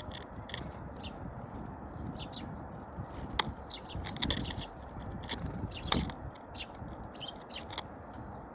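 Small birds at a feeder giving many short, high chirps, with wing flutters and a few sharp taps.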